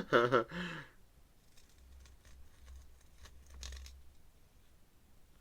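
Faint scratching of an ink pen drawing on paper, a few short strokes.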